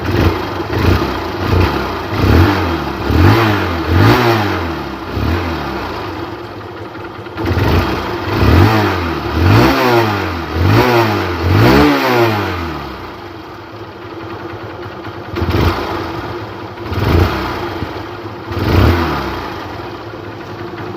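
Hero Hunk's single-cylinder four-stroke motorcycle engine idling and being blipped on the throttle about eleven times, in three bunches, each rev rising and falling back to idle. The engine is being test-revved just after its carburetor was cleaned and refitted.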